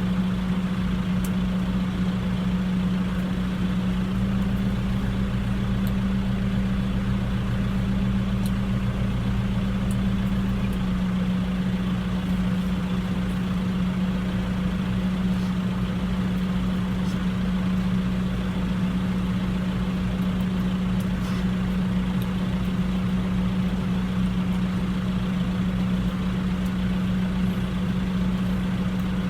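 Tractor engine running at a steady speed, a constant hum with no change in loudness.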